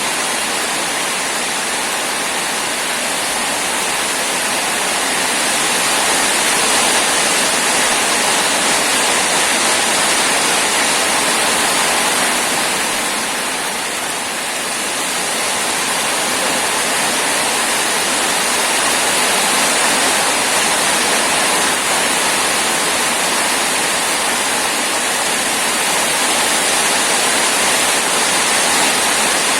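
Heavy rain falling steadily, a dense even hiss that eases a little about halfway through and then builds again.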